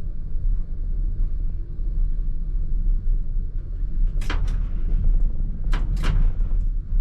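ČKD Tatra T3R tram running with a steady low rumble, with two short groups of sharp clacks about four and six seconds in.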